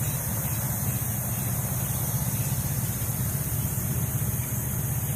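Steady low drone of idling engines with a fast, even pulse, under a steady high hiss.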